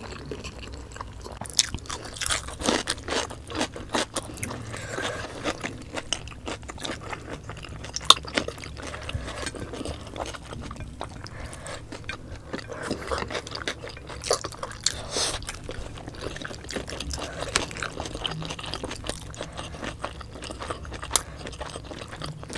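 Close-miked chewing and wet mouth sounds of people eating braised pork belly adobo and rice by hand, with short crunches of raw cucumber slices and small clicks throughout; one sharper click about eight seconds in.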